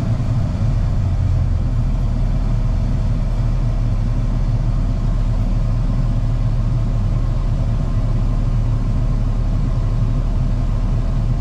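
Steady engine and road hum inside a truck's cab while driving in slow traffic.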